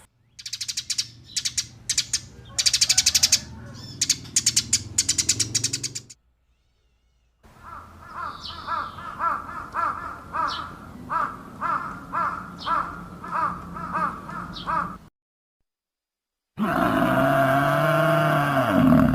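Animal calls in three separate stretches with silences between them. First come rapid rattling trains of clicks, then a call repeated every half second or so with high chirps over it, and last one loud drawn-out call that falls in pitch at its end.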